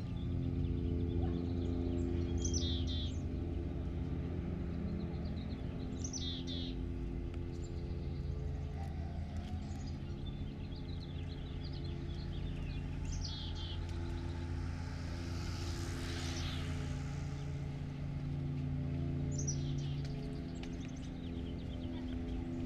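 A songbird singing short chirping phrases about four times over a steady low mechanical hum, with a brief rush of noise about two-thirds of the way through.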